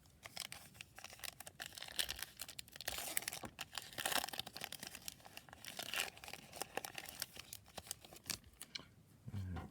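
Foil wrapper of a Topps Gypsy Queen baseball card pack being torn open and crinkled, a run of sharp crackles and rustles.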